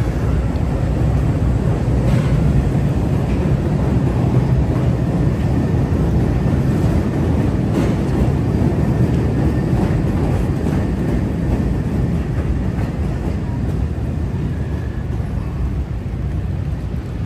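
Low, steady rumble of a Chicago 'L' train running on the elevated tracks. It swells a couple of seconds in and slowly fades toward the end, over the hiss of rain and street noise.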